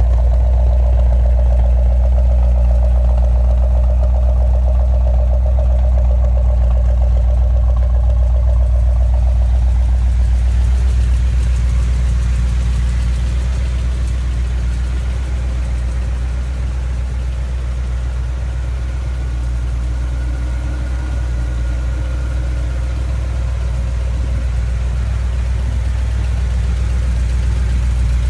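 1972 Chevrolet Corvette's V8 engine idling steadily.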